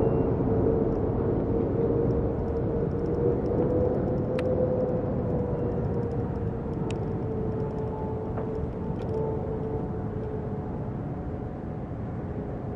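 Jet airliner engines: a steady rumble with a held whine that wavers slightly in pitch, slowly fading as the aircraft moves away.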